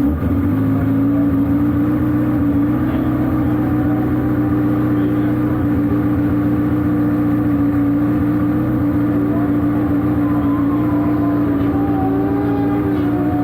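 Speedway sidecar engine running close by at steady, fairly high revs, holding one even pitch with only slight wavering.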